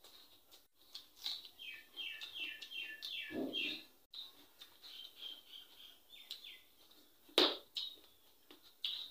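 A bird chirping: a quick run of about half a dozen falling notes a couple of seconds in, and another short call past the middle. Soft clicks and smacks from eating rice by hand, with one sharp click about seven seconds in.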